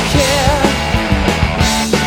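Punk rock power trio playing a fast, loud song with distorted electric guitar, bass and steady drum hits.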